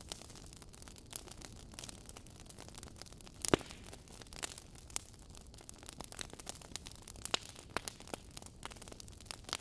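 Logs burning in a fireplace, crackling with irregular snaps and pops over a low hiss; one loud pop about a third of the way in and another near three-quarters.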